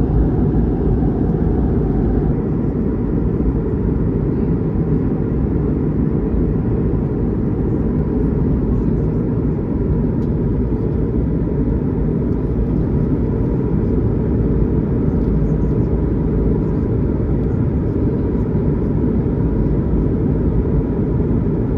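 Steady cabin rumble inside an Airbus A220-300 airliner in flight, the low, even roar of engines and airflow heard from a passenger seat.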